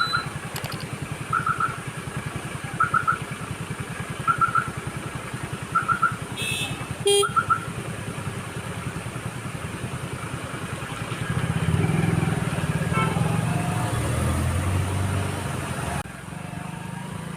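Motorcycle engine running at low road speed, with a short chirp repeating about every one and a half seconds over the first seven seconds. The engine grows louder for a few seconds about two-thirds of the way through.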